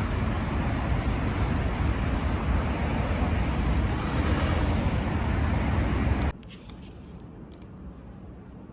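Steady street traffic noise from passing vehicles. It cuts off abruptly about six seconds in, leaving quiet room tone with a few faint clicks.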